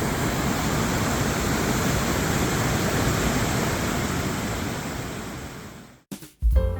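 River water rushing steadily where the Lehigh River pours into the Delaware, fading out about five seconds in. Music starts just before the end.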